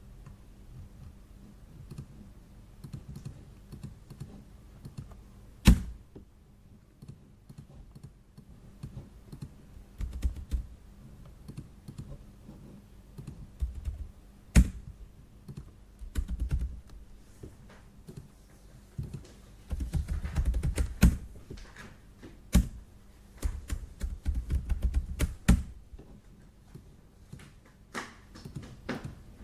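Typing on a computer keyboard in irregular bursts of clicks, with low desk thumps under it. About five louder, sharp single clacks stand out over the stretch.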